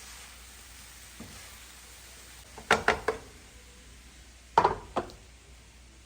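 Food sizzling faintly in a pan as it is stirred, with two quick runs of sharp knocks of a utensil against the pan, about three seconds in and again near five seconds.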